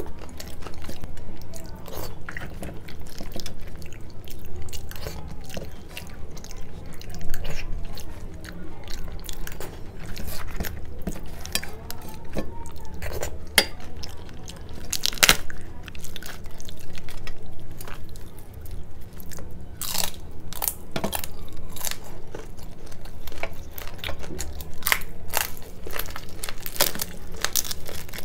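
Close-miked chewing and crunching of a hard-fried puri with chana masala: a steady run of wet chewing with sharp crisp cracks now and then.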